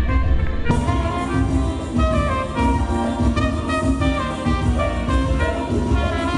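Dance band music, several instruments playing melodic lines over a pulsing low beat.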